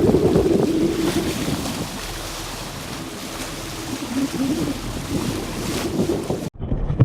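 Wind buffeting the microphone and water rushing past a boat at sea. The sound cuts off abruptly near the end.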